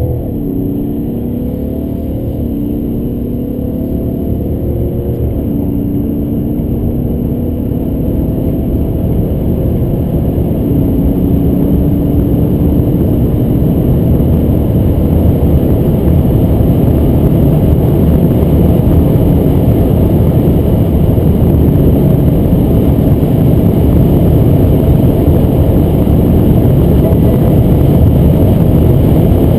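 BMW 540d xDrive's straight-six diesel under full-throttle acceleration, its pitch climbing and dropping back at quick upshifts in the first few seconds, then holding longer gears. Wind and road noise grow steadily louder as the speed builds.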